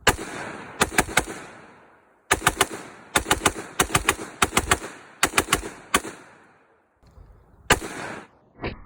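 Gunfire: about twenty loud shots fired in quick groups of two or three, a fraction of a second apart, with a pause before one last shot near the end.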